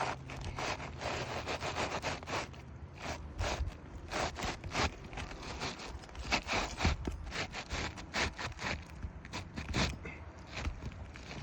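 Asphalt roof shingles scraping and rustling in a run of irregular strokes as they are handled and slid against each other to line them up.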